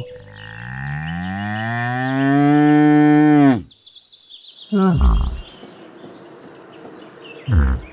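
A bull bellowing: one long, rising call held for about three and a half seconds. It is followed by two short low calls about five seconds in and near the end.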